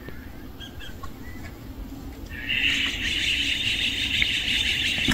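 Birds chirping in a dense, continuous chatter that starts abruptly and loudly about two seconds in, after a few faint chirps.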